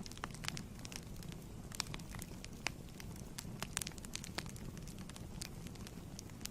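Wood fire burning in a fireplace, with a low steady rumble and frequent irregular crackles and pops.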